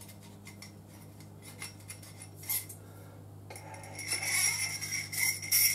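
Small metal motorcycle fork parts clinking and rubbing as one is worked clean of leftover dirt, with a few light clicks at first and a louder metallic jangling and ringing from about three and a half seconds in.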